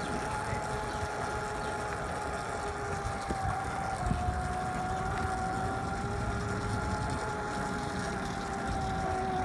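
Electric dirt bike's BHT 1000 W brushless motor driven by a sine-wave Kelly controller, running steadily: a quiet, even whine that drifts slightly up and down in pitch over a low rumble.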